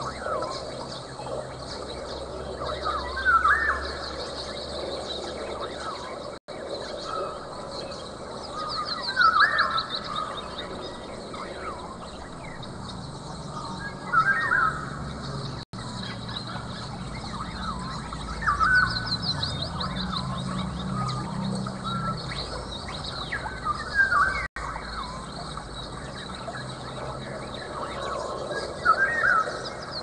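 Birds calling, one call coming back about every five seconds, some with a quick high trill after it, over a low steady hum.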